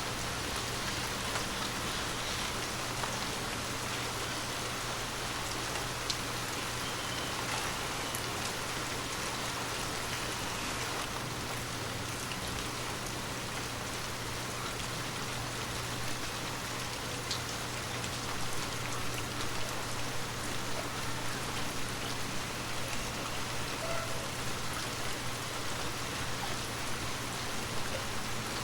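Heavy rain falling steadily, an even hiss of rain with a few single drops ticking out of it.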